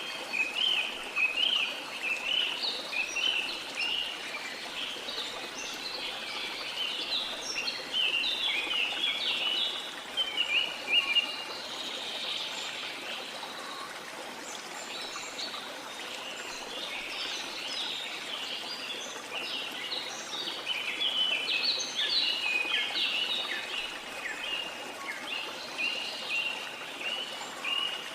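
Many birds chirping and calling in quick, dense phrases over the steady rush of a flowing river. The birdsong thins out for a few seconds midway, then picks up again.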